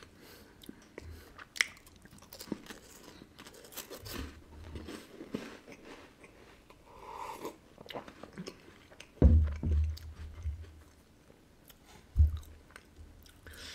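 Close-miked chewing of crisp wafer biscuits, with small crunching crackles and swallows. About nine and twelve seconds in there are two loud, dull, low thumps.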